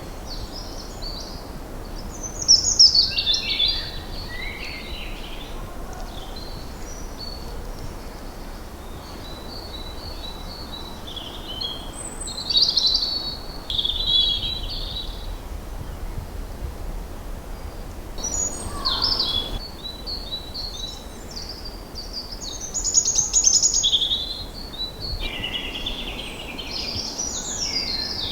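Woodland songbirds singing in spring, with about five loud song phrases of quick trills and downward sweeps over fainter chirping from other birds. A steady low rumble runs underneath.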